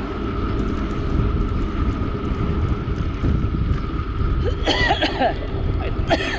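Steady wind rumble on the microphone while riding a bicycle. About halfway through, and again near the end, the rider coughs and splutters after swallowing a bug.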